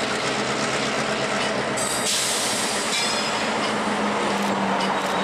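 Freight train rolling past at low speed: a steady rumble of steel wheels on rail under a low diesel engine tone, with a brief high wheel squeal about two seconds in.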